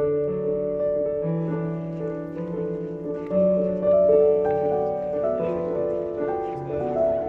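Background music: slow, gentle piano playing held notes that change about once a second.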